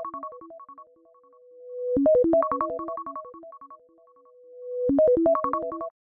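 iPhone ringtone playing: a quick run of bright electric-piano-like notes that repeats about every three seconds, with a held tone swelling in before each repeat. It cuts off abruptly near the end.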